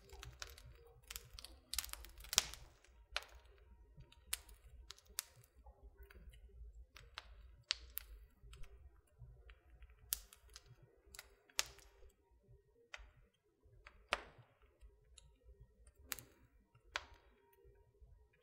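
Wood fire crackling in a fireplace: irregular sharp pops and snaps, a few a second at times, over a faint low rumble of the burning logs.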